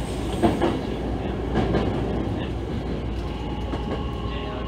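Hankyu 9000 series electric train running, heard from inside the leading car: a steady rumble with a few sharp wheel knocks over rail joints and points in the first two seconds. A steady whine comes in about three seconds in.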